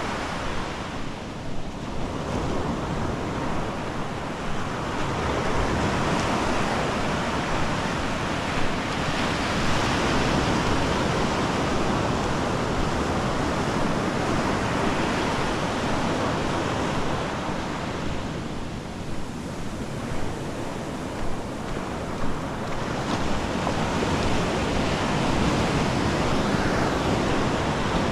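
Ocean surf breaking and washing up a sandy beach: a continuous rush that eases briefly near the start and again about two-thirds of the way through, then swells back up.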